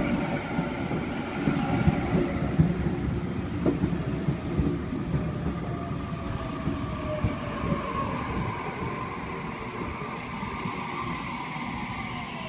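Waratah electric train pulling into the station, its wheels rumbling on the rails. Several whining tones from its traction motors fall in pitch as it slows.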